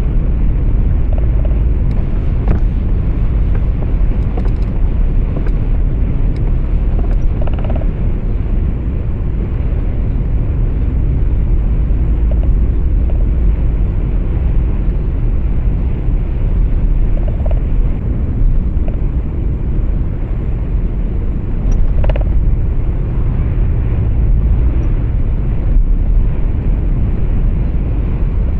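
Steady low rumble of road and engine noise heard from inside a moving truck's cab, with a couple of faint clicks.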